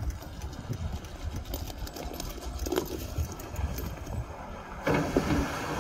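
Front loader clearing snow: its engine running with irregular knocks and clanks. About five seconds in, a louder steady rushing noise sets in as the loader scrapes the road.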